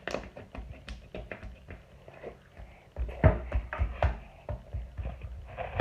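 Slime squished and pulled roughly in the hands, giving an irregular run of clicks and pops. The handling gets heavier from about three seconds in.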